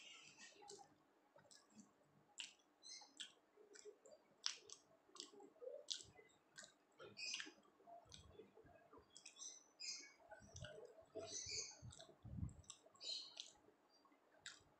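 Faint close-up chewing of soft flatbread with chickpea dal, with irregular wet mouth clicks and lip smacks and a few soft low thumps.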